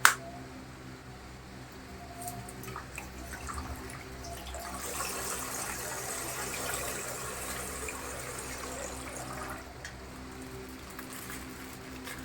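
A sharp click, then colored water pouring and trickling out of an opened plastic ice-pack bag, swelling for a few seconds in the middle before settling to a thinner trickle.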